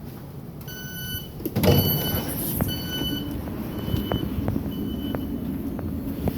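Train door warning tone beeping about once a second, with a loud rush of air and sliding as the train's doors open about a second and a half in, followed by a few sharp clicks over the steady low rumble of the train.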